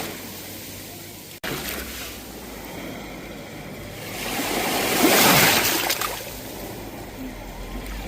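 Sea waves washing onto the shore in slow surges: one wave swells and breaks about halfway through and another builds near the end. A very short gap cuts the sound about a second and a half in.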